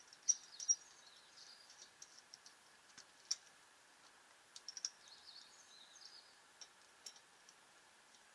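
Faint, scattered high-pitched bird chirps, with a few sharp small clicks between them.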